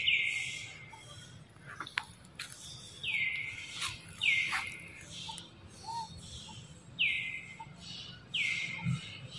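A forest bird calling five times, each note a clear whistle that drops sharply in pitch and then holds level for about half a second, with a few faint clicks in between.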